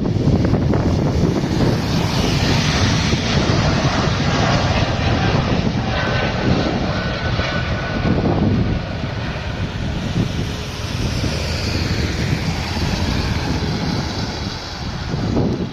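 Airliner's jet engines at takeoff power, a loud, steady dense noise with a faint whine rising out of it about six seconds in.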